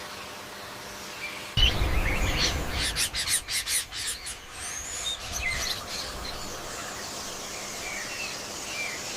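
Short bird chirps and calls scattered through, with a louder burst of rustling noise and rapid clicks starting about a second and a half in and dying away a few seconds later.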